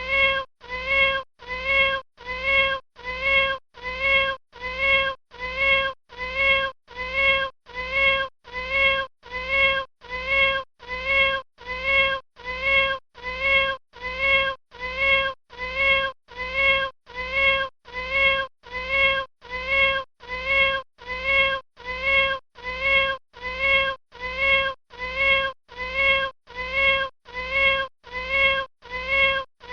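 A kitten meowing: one short, high meow repeated at an even pace of about once a second, every call the same in pitch and shape.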